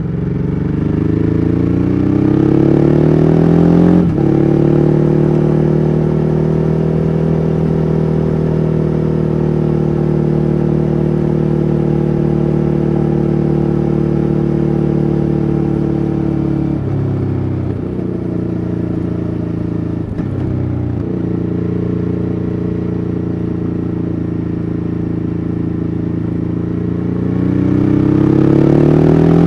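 2014 Ducati Hyperstrada's 821 cc V-twin engine under way. It pulls up through the revs, drops sharply on an upshift about four seconds in, then runs steadily with a few brief throttle changes in the middle, and revs up again near the end.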